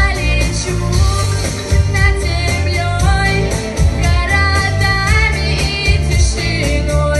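Pop song with a backing track: a female voice singing a melody over a steady beat.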